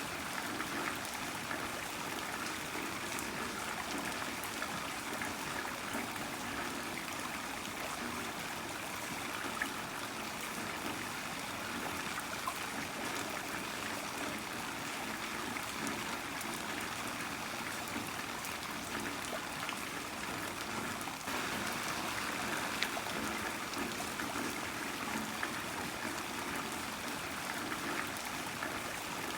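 Heavy rain falling steadily, a dense even hiss of drops with a trickling, running-water quality. It gets slightly louder about two-thirds of the way through.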